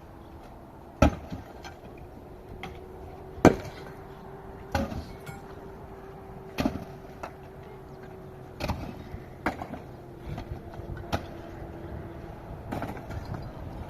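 A series of sharp knocks, like blows of a tool on wood, about eight of them at irregular intervals, the loudest two about a second and three and a half seconds in, over a faint steady hum.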